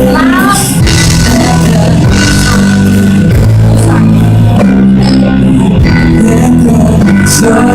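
Full band music with guitar, drums and long sustained low chords, playing an instrumental passage without a lead vocal.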